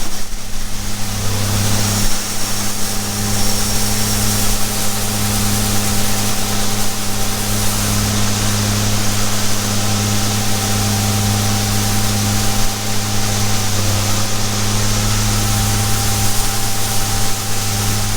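Farm machinery engine running steadily, a loud low hum over a wash of mechanical noise.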